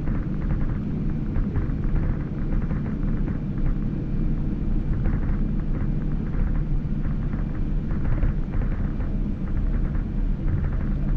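Steady low rumble of an airliner cabin, heard from a window seat of a Boeing 787-9: engine and airframe noise with a constant hum underneath.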